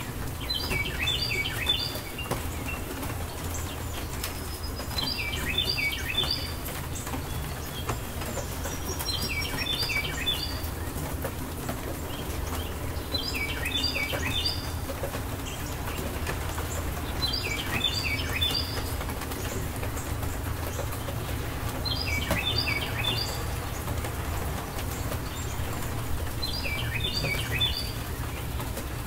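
A songbird repeating a short phrase of quick high chirping notes about every four seconds, over a steady background hiss and low rumble.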